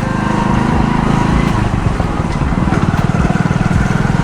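Motorcycle engine running at a steady, rapid beat while riding, with wind noise over the microphone.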